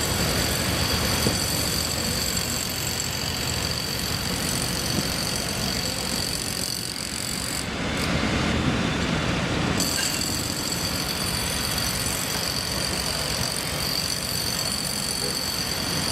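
Steady vehicle and engine noise, with a set of high steady tones that cut out for about two seconds around eight seconds in.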